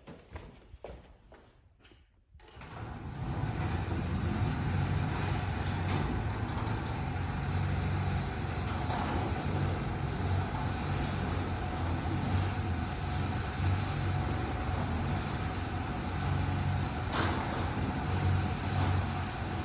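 Garage door opener running steadily with a low mechanical hum as the door travels, starting about two and a half seconds in after a few light clicks.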